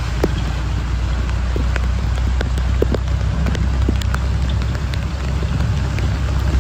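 Heavy rain falling, with many single drops striking close to the microphone as short ticks, over a steady low rumble.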